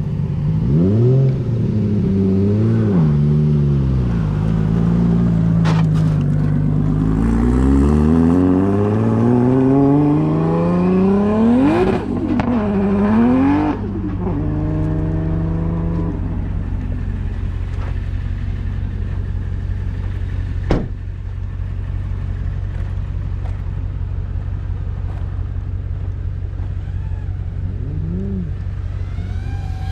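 Nissan Silvia S15 drift car's engine revving hard up and down, climbing steeply to a peak about twelve seconds in, then settling to a steady low drone. There is a single sharp click about two-thirds of the way through.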